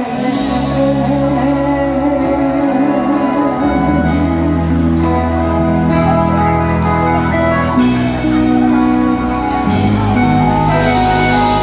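Live band music from a Thai luk thung / mor lam stage show: sustained chords over a moving bass line and a steady beat.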